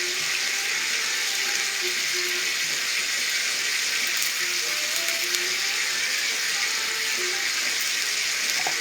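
Green beans and celery sizzling in oil in a wok, a steady sizzle.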